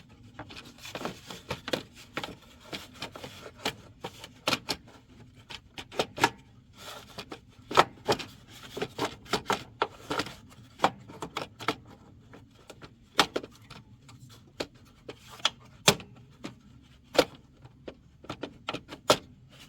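Irregular sharp clicks and knocks of car parts being handled and fitted back into place by hand, with a few louder knocks.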